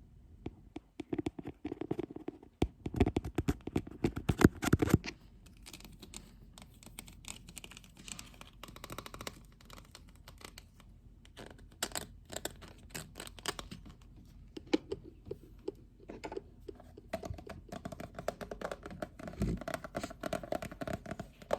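Fingers tapping and scratching on a lid: a dense run of sharp taps in the first few seconds, scattered taps through the middle, and steadier scratching near the end.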